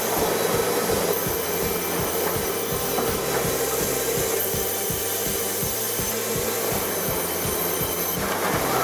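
Industrial twin band saw cutting through a log: a steady rasping saw noise, with a regular beat of background music underneath.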